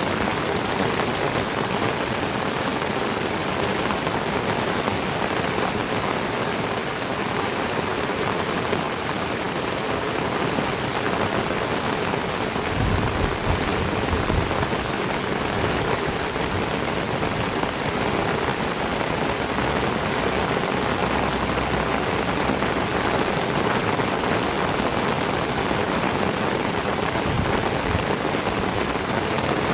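Heavy tropical rain falling steadily on trees and foliage, an even dense hiss. A brief low rumble comes about halfway through.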